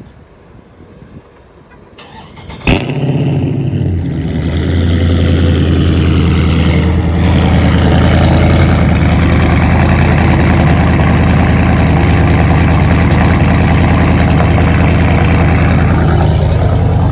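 Straight-piped Dodge Charger Scat Pack's 392 (6.4-litre) Hemi V8 cold-starting: a brief crank, then it fires with a sudden loud flare and settles into a loud, steady high cold idle.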